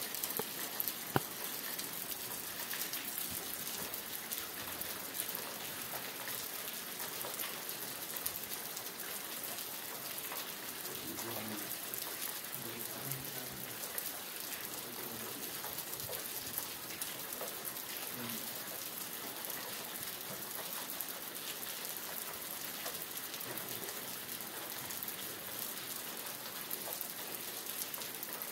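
Steady rain falling, with one sharp click about a second in.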